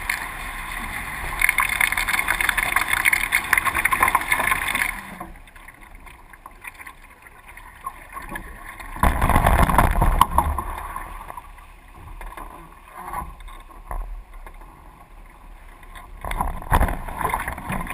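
Water rushing and hissing past the hulls of a Hobie 20 catamaran under sail, loud at first and dropping off abruptly about five seconds in. Wind buffets the microphone in gusts, hardest around the middle and again near the end.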